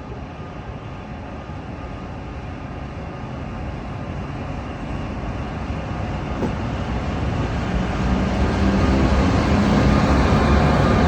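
MÁV class V63 (630) electric locomotive pulling an InterCity train out of the station, its running noise growing steadily louder as it draws near, with a steady low hum coming up in the last few seconds.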